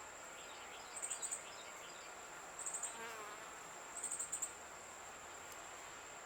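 A chirping insect: a steady high-pitched trill broken by short pulsed chirps about every one and a half seconds. A short falling buzz, like a bee flying close past, comes about three seconds in.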